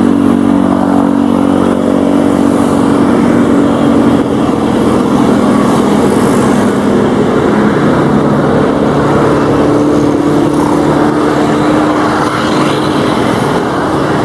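Propeller aircraft engines, the six-cylinder piston engines of Beech G36 Bonanzas, making a loud steady drone. The pitch dips mid-way and rises again near the end as the aircraft pass.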